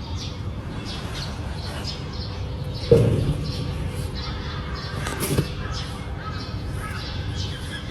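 Small birds chirping repeatedly in short calls, with a louder brief low sound about three seconds in and another just after five seconds.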